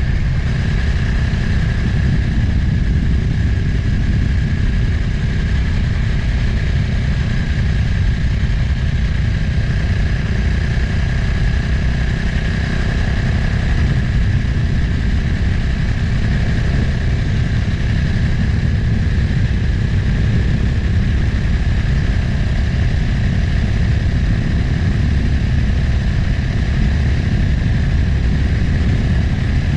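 Motorcycle engine running steadily while riding, under a heavy rush of wind on the microphone.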